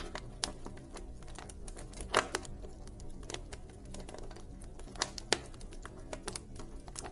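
A wood campfire crackling: irregular sharp pops and snaps of burning wood over a low, steady rumble of flame. A louder pop comes about two seconds in, and another pair just after five seconds.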